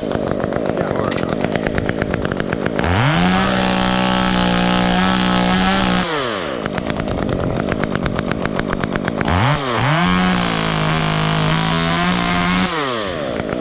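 Two-stroke chainsaw idling, then opened to full throttle twice for about three seconds each, dropping back to idle in between. These are short cuts through a tree stub.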